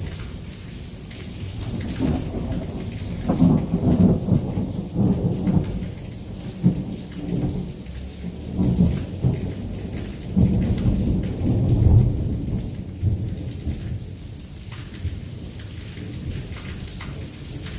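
Heavy rain falling steadily, under rolling thunder that swells twice, about a quarter of the way in and again about two-thirds through, then fades away.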